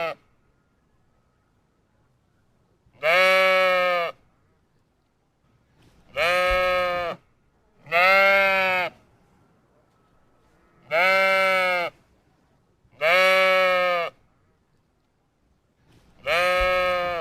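Sheep bleating: six separate baas, each about a second long, coming every two to three seconds with quiet between them.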